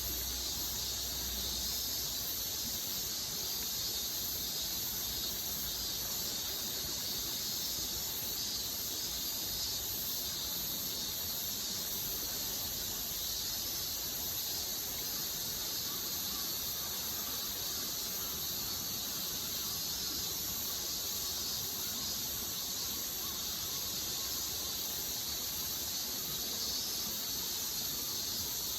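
Steady, high-pitched chorus of insects, shrilling without a break.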